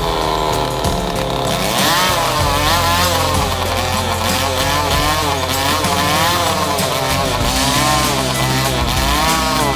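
New high-performance 49cc engine running, its revs rising and falling over and over as the throttle is worked.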